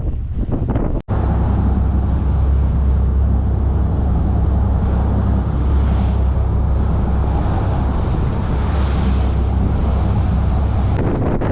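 Boat engine running steadily with a low hum, heard from on board over wind and water noise. It cuts in abruptly about a second in and cuts out just before the end.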